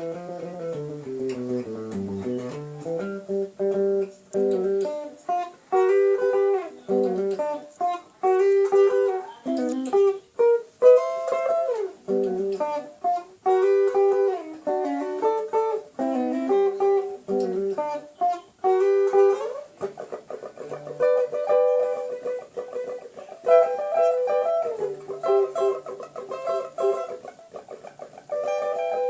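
A guitar played solo: a descending run of low notes opens, followed by picked melodic phrases, and about two-thirds of the way in the playing changes to quickly repeated notes.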